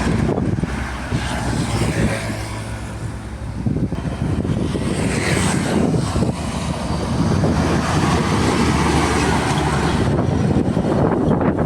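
Diesel trucks driving past on the road, their engines and tyres running loud and steady. The sound dips a few seconds in, then builds again as more trucks go by.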